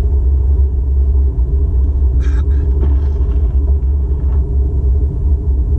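Steady low rumble of a car being driven, heard from inside the cabin, with a brief hiss about two seconds in.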